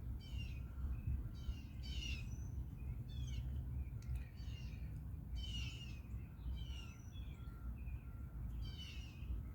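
Birds chirping, short falling notes about two a second, over a steady low rumble.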